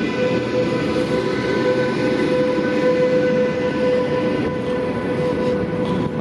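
Electric train at a station platform, a steady whine over rumbling running noise.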